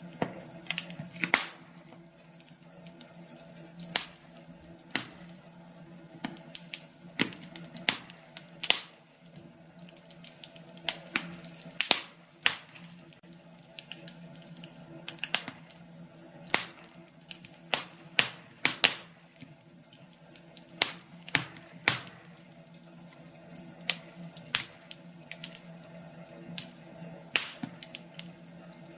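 Wood fire crackling, with irregular sharp pops and snaps of varying loudness over a faint steady low hum.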